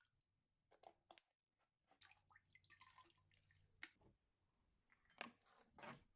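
Faint, scattered short clicks and rustles of small household objects being handled.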